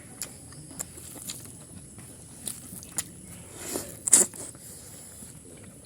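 Close-up eating sounds: someone chewing and biting into pork curry, with scattered short wet clicks and a louder burst of smacking about four seconds in.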